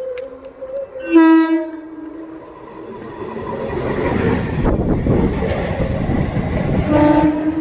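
A 9-coach EMU electric local train sounds a short, loud horn blast about a second in. Its coaches then rumble and clatter past close by, the noise building as they arrive, and a second horn note sounds near the end.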